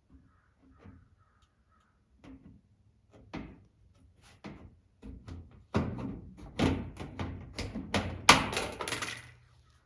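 Irregular knocks and thumps of work on a race car's plastic body panels: a scattered few at first, then a busier, louder run of them from about six seconds in.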